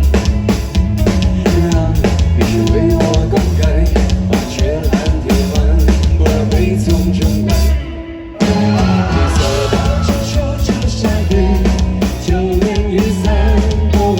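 Live pop-rock band playing an instrumental passage between sung lines, with drum kit, bass and guitar. The band drops out briefly about eight seconds in, then comes back in at full level.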